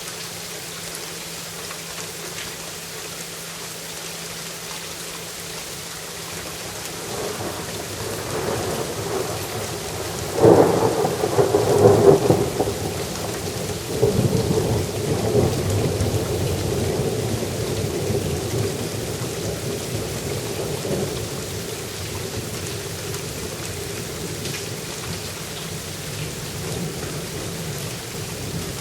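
Steady rain with a long roll of thunder: the rumble builds from about seven seconds in, peaks in sharp cracks around ten to twelve seconds, surges once more, and rolls away over the next several seconds while the rain keeps falling.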